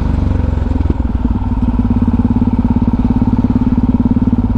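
Motorcycle engine running at low revs with a rapid, steady pulsing, heard through a helmet-mounted microphone.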